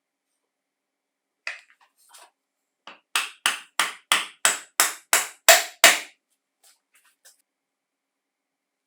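A run of about ten sharp hammer taps, about three a second, growing louder, with a few lighter clicks before and after.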